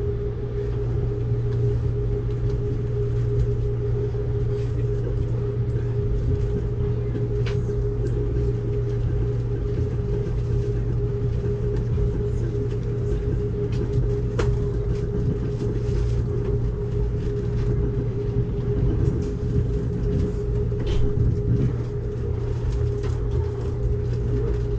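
Amtrak Cascades passenger train running, heard from inside the coach: a steady rumble with a constant hum and a few faint clicks.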